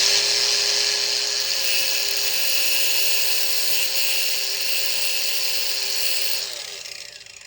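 A high-speed handheld power tool switched on, running steadily with a high whine and hiss, then switched off about six and a half seconds in and winding down to a stop.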